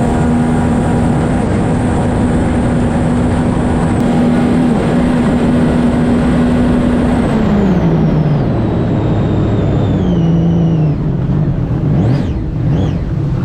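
Race jet ski engine running at steady high revs amid loud water and wind noise, then throttling back about seven seconds in, its pitch stepping down while a high whine falls away.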